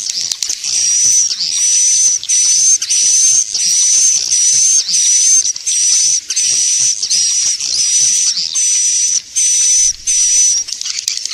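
Swiftlet lure call: a string of short, high whistled chirps, each a little wavering, repeated about every two-thirds of a second over a steady hissing twitter. It is the played-back call swiftlet farmers use to draw swiftlets into a nest house.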